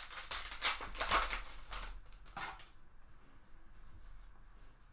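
Baseball trading cards handled and flipped through by hand: a quick run of rustles and slides over the first two and a half seconds, then fainter, sparser handling.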